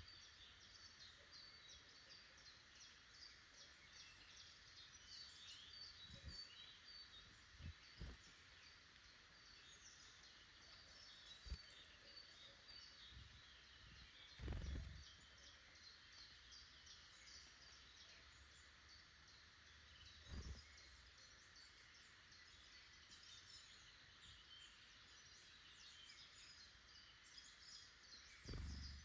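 Faint woodland bird chorus: many small birds chirping and singing at once in a steady scatter of short high calls. A few brief low thumps stand out, about halfway through, around two-thirds of the way, and near the end.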